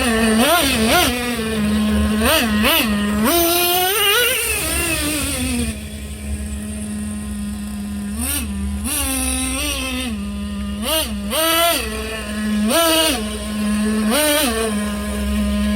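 Traxxas T-Maxx 3.3's small two-stroke nitro engine idling steadily and being blipped on the throttle again and again, with one longer rev about four seconds in, as its tuning is checked.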